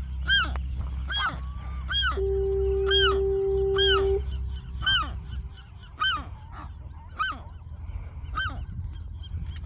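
Western gulls in a nesting colony calling: a rapid string of short, arched calls, about two a second, from several birds. About two seconds in, a steady low tone sounds for about two seconds. A low rumble runs underneath.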